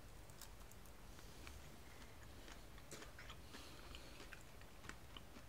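Faint chewing with scattered small crunches, as two people eat a chocolate cup with almonds all through it.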